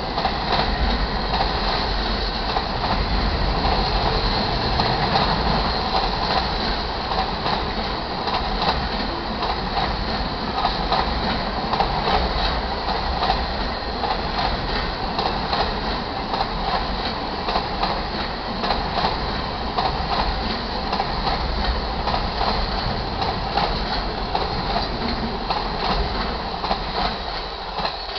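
Auto-rack freight cars rolling past a grade crossing: a steady wheel rumble with clacking over the rail joints. The sound fades near the end as the last cars go by.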